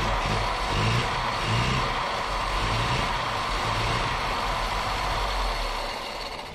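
A 1977 Datsun B210's carbureted four-cylinder engine running with an uneven low pulse on its first start, set rich. The sound fades away near the end.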